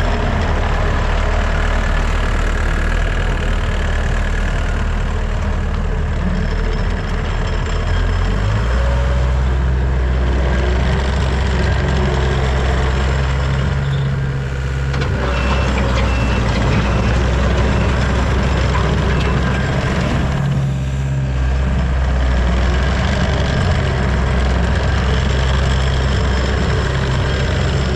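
Diesel engine of a Takeuchi TL250 tracked skid steer running steadily. Its low note steps up and grows stronger about eight seconds in, and it dips briefly twice later on.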